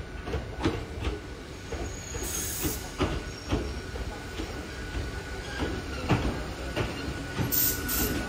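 Hakone Tozan Railway Moha 1 electric railcar: irregular metallic knocks and clanks under a faint steady whine, with two short hisses, one about two seconds in and one near the end.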